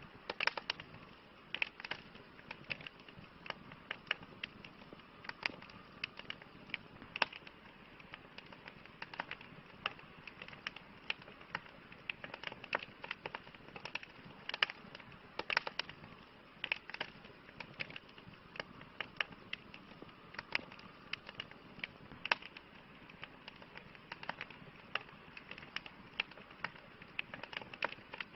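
Campfire crackling: irregular sharp pops and snaps from the burning wood, several a second and of varying strength, over a steady soft hiss of the flames.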